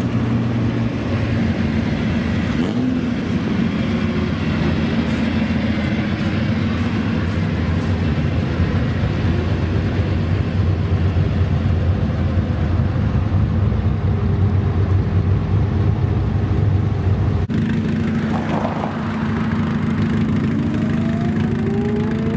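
Supercar engines running at a steady low speed. After an abrupt change about three-quarters of the way through, an engine's pitch rises near the end as it revs up.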